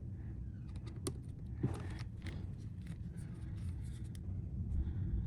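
Light clicks and scrapes of small objects being handled, most between about one and four seconds in, with one sharper click, over a steady low hum.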